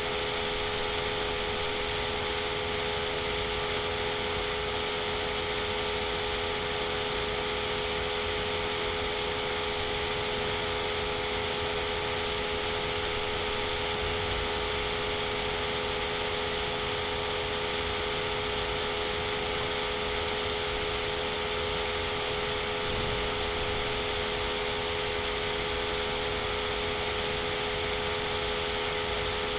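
Steady background hum and hiss with a constant tone a little under 500 Hz, unchanging throughout and with no distinct events.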